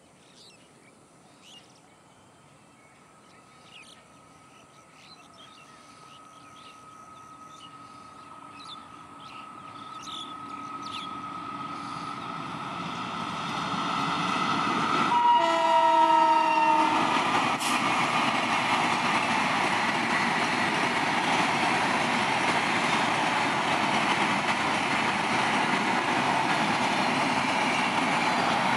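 WAP-5 electric locomotive and its express train approaching at high speed, the sound growing steadily louder. About halfway through, a short horn blast dips in pitch as the locomotive passes, followed by the steady rush of the passenger coaches going by.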